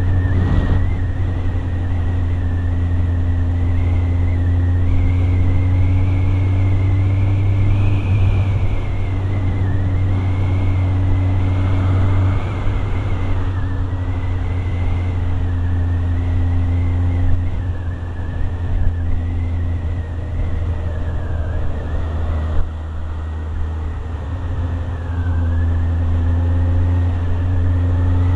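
Motorcycle engine running steadily while riding, with a deep steady hum and a pitch that drifts gently up and down. It goes quieter for several seconds past the middle, then picks up again near the end.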